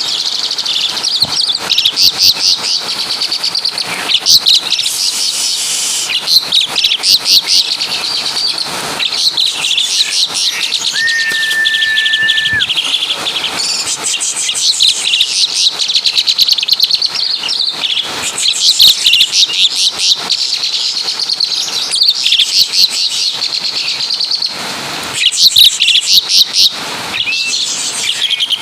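Asian pied starling (jalak suren) singing a long, continuous song of rapid chattering, trilled notes that takes in imitations of other birds' calls. About eleven seconds in it holds one steady whistled note for over a second.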